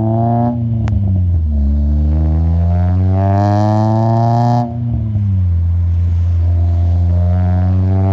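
Honda K24A2 four-cylinder engine of an Acura TSX pulling under load. Its pitch climbs, falls back about half a second in, then climbs again for about three seconds with a hiss over the top. Near five seconds it drops again, then holds fairly steady.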